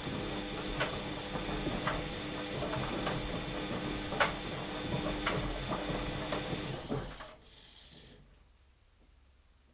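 Washing machine running mid-program: a steady motor hum and whine with a knock roughly once a second, stopping abruptly about seven seconds in and leaving near silence.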